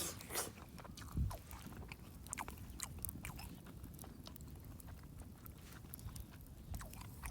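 A person chewing a mouthful of rice close to the microphone, with scattered small clicks and a soft thump about a second in.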